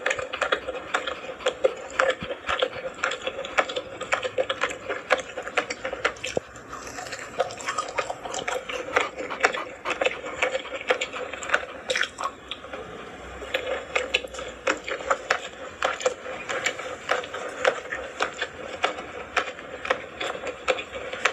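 Close-miked eating sounds of a person chewing braised seafood: wet chewing and biting, with many sharp irregular clicks a second.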